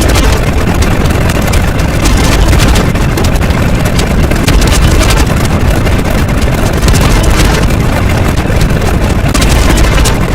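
A loud, steady rumble with dense crackling, strongest in the deep bass and unchanging throughout.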